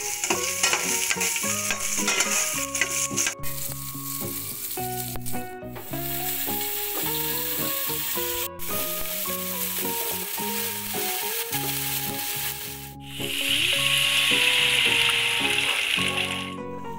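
Ginger and shallots sizzling in hot oil as they are stirred in a pot, over background music. Near the end a louder, brighter hiss as coconut milk is strained into the pot.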